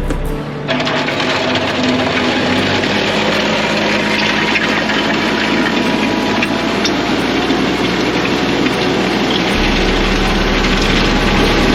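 Kioti CK3510 compact tractor's diesel engine running under load, with a steady rush of gravel being scraped and levelled by the land plane dragged behind it. The noise starts suddenly about half a second in.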